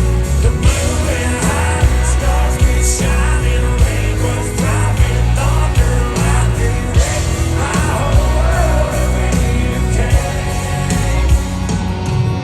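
Live country band playing loudly, with a male lead vocal singing over heavy bass and steady drum hits.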